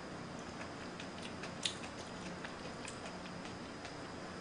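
Quiet close-miked chewing of noodles, with faint wet mouth clicks and smacks at irregular moments, the loudest about a second and a half in, over a low steady hum.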